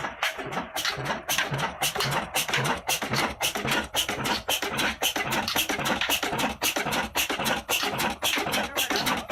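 Old Ruston Hornsby 35 HP stationary diesel engine running, its exhaust firing in a rapid, even beat of about five a second.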